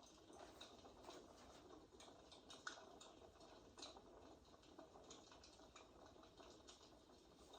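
Faint fireplace crackle from a recording: soft, irregular pops and snaps over a low hiss.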